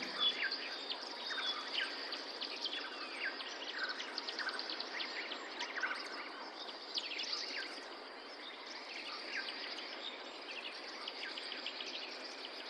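Forest ambience: many birds chirping in short, quick, downward-sliding calls, over a steady background hiss.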